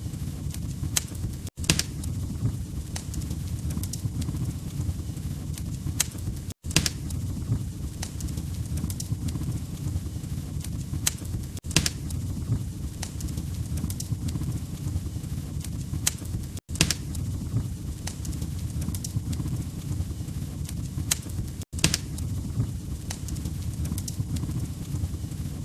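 Wood fire crackling in a fireplace: irregular sharp pops and snaps over a steady low rumble. The sound cuts out for an instant about every five seconds, as a looped recording does.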